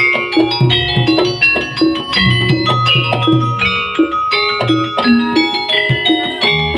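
Live music for a Javanese pegon horse dance: many struck, ringing pitched notes in a busy running pattern over a steady low drum beat.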